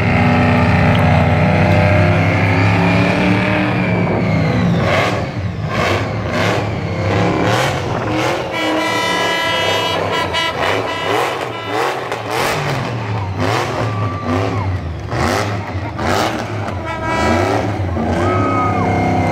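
Rat-style skid car doing a burnout: its engine is held at high revs with the rear tyres spinning. From about five seconds in, the revs pulse up and down in quick repeated blips, about two a second.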